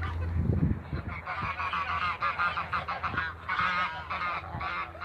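A flock of birds calling over one another in a dense chatter of short, harsh, honking calls that builds from about a second in, with a few low thumps at the start.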